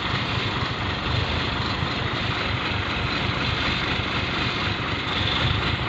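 Fully loaded Fuso dump truck's diesel engine running steadily under heavy load, a deep, even drone with no breaks.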